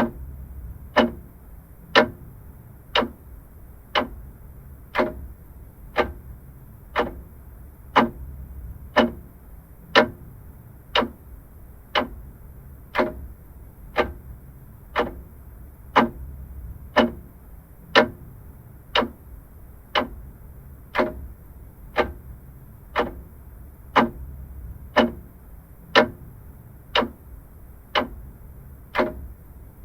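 Vintage mechanical clock ticking steadily, one tick a second.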